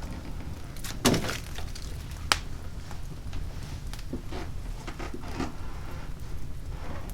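Oak log fire in a fireplace burning with a low steady roar and scattered wood crackles, a loud heavy crack about a second in and a sharp pop just after two seconds.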